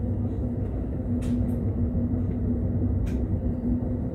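Amtrak passenger train running through a long tunnel, heard from inside the car: a steady low rumble with a constant hum, and a few brief clicks about one and three seconds in.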